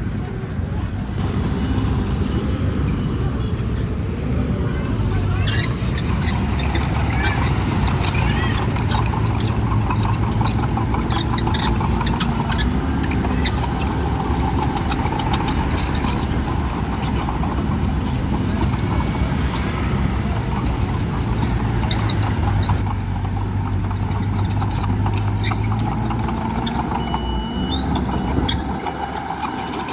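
Heavy diesel earthmoving machinery running steadily under load, a deep engine drone with scattered clanking and rattling.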